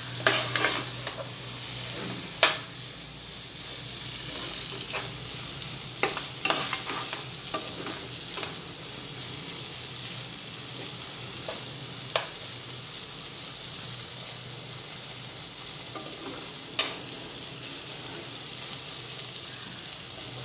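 Okra in a thick onion-tomato masala sizzling in a nonstick pan as a spatula stirs it, with a steady frying hiss and a scattering of sharp taps and scrapes of the spatula against the pan.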